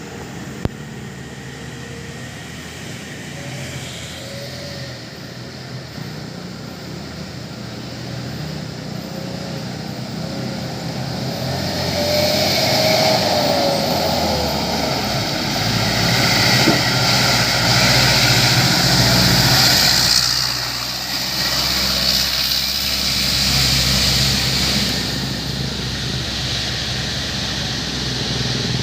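A heavy truck's diesel engine passes on the road. The engine and a hiss grow louder to a peak about two-thirds of the way through, then drop back to a steady engine hum.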